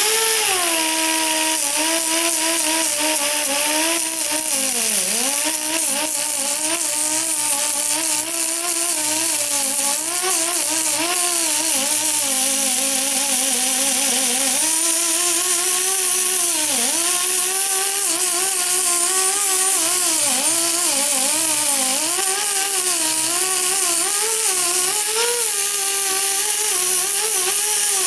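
Angle grinder running continuously against the metal frame of a Kawasaki KLT 200, grinding down a weld defect. Its whine sags in pitch again and again as it is pressed into the work and picks back up as the pressure eases, over a steady hiss of grinding.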